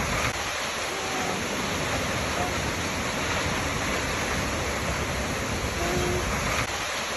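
Waterfall rushing steadily, with an even, unbroken roar of falling water.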